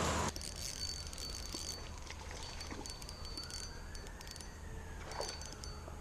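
A vehicle passing on a road some way off, its tyre noise swelling and fading over a few seconds, with scattered faint ticks over the outdoor background.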